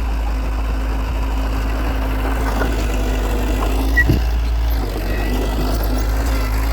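Heavy diesel engine of an earthmoving machine running steadily at a low pitch, with a short knock about four seconds in.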